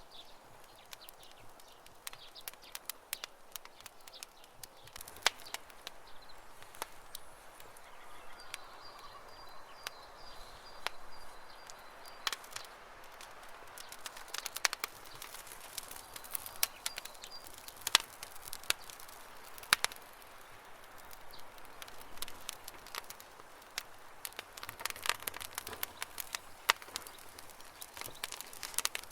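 Campfire crackling, with irregular sharp pops over a soft hiss. A faint high bird call is heard for a few seconds about eight seconds in.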